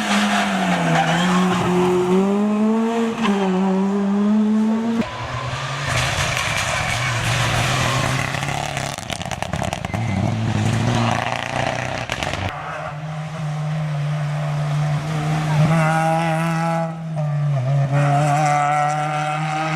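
Rally car engines revving hard, their pitch rising and falling as the cars accelerate and lift. The sound changes abruptly twice, about five and twelve seconds in, as one car gives way to the next.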